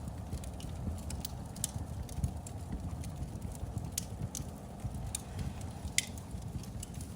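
Fire in a fireplace crackling: irregular sharp pops and snaps over a low, steady rumble of flame, with the loudest pop about six seconds in.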